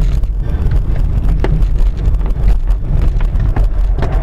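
Car driving, with a steady low rumble of engine and road noise and a few short knocks.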